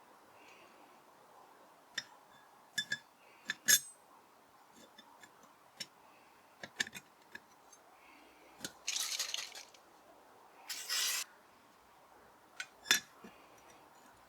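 Small metal parts of a 50cc motorcycle's wet clutch clinking and tapping as they are handled and fitted, in scattered sharp clicks. Two short hissing bursts come a little after halfway.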